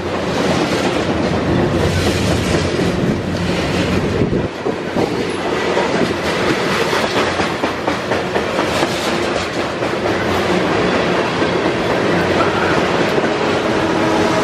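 Freight train of centerbeam flatcars loaded with lumber passing close by at speed: wheels clattering rapidly over the rails with a loud, steady rumble. Near the end a mid-train locomotive comes alongside, adding steady humming tones.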